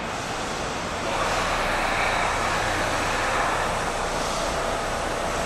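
Kintetsu Urban Liner Next (21020 series) limited express train pulling slowly into an underground station platform: a steady rumble and hiss that grows louder about a second in as the train draws near.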